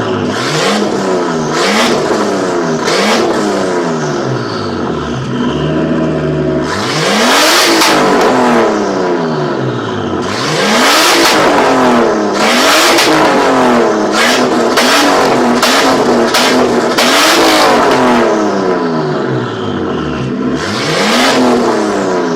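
Straight-piped, turbocharged RB25DET NEO inline-six in a Nissan 240SX, revved over and over in quick blips that climb and fall back. It holds a steady note for a moment about five seconds in, then carries on with more revs.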